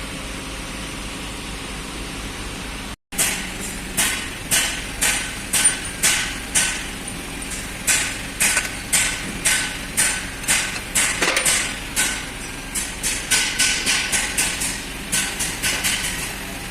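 Repeated sharp metallic clicks or taps from a hand tool on the car's underside, about two a second, each with a short ring, starting about three seconds in and running in uneven groups. A steady background hum comes before them.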